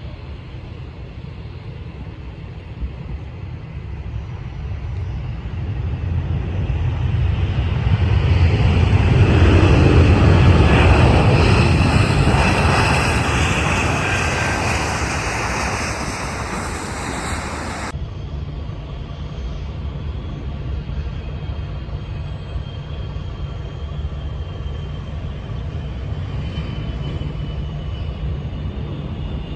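Arriving jet airliner passing close by on its landing approach, its engine noise swelling to a peak about ten seconds in and then fading. It is cut off abruptly a few seconds later, leaving a steady low rumble.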